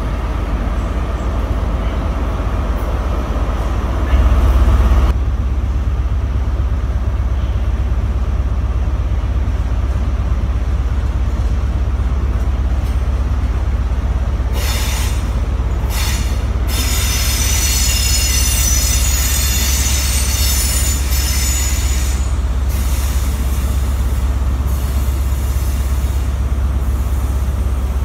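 Diesel trains rumbling steadily as they move slowly. There is a brief louder low surge about four seconds in. From about halfway, the wheels of an InterCity 125 (HST) squeal in several high tones for some seconds as it rolls over the curved tracks and pointwork.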